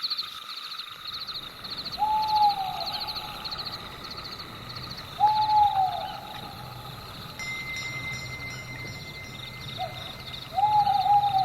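Owl hooting three times a few seconds apart, each hoot a single note of about a second that drops slightly in pitch, the last one preceded by a short soft hoot. Behind it runs a steady, rapidly pulsing high chirping, joined about halfway through by a thin steady whistle-like tone.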